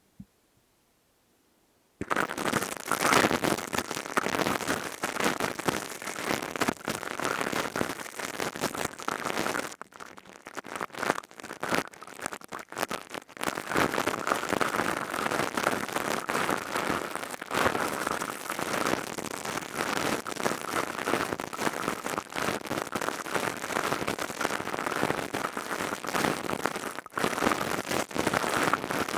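Crystal-tube ASMR trigger worked right against the microphone: dense, continuous crackling that starts about two seconds in, thins out for a few seconds in the middle and briefly drops out a couple of times.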